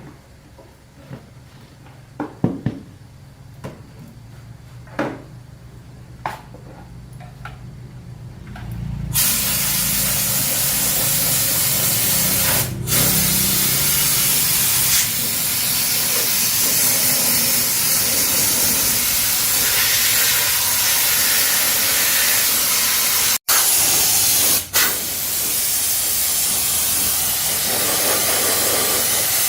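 A few scattered knocks and clicks, then about nine seconds in a loud, steady spraying hiss starts and keeps going.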